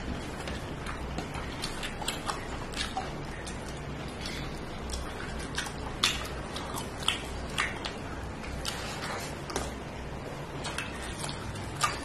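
Close-up eating sounds: chewing with irregular wet lip smacks and mouth clicks, over a low steady hum.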